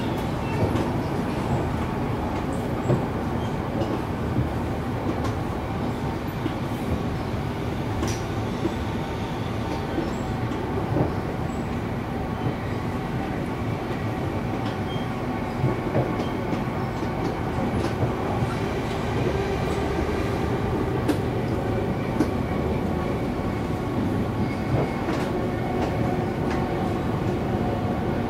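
Siemens electric multiple-unit train running along the track, heard from inside the carriage: a steady rumble of wheels on rails with occasional short clicks from the track.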